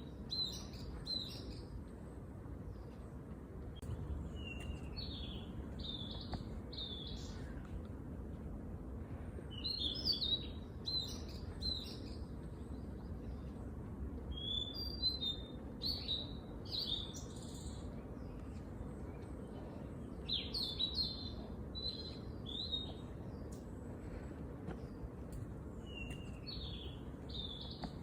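A songbird singing bouts of short, quick, high chirping notes, one burst every few seconds, over a steady low background rumble.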